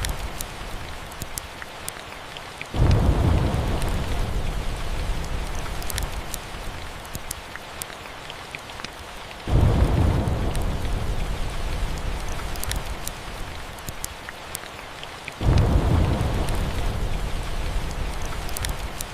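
Steady rain with three rolls of thunder, the first about three seconds in, the second near the middle and the third about three-quarters through. Each starts suddenly, is deep and dies away over several seconds. Faint crackles of a log fire sound throughout.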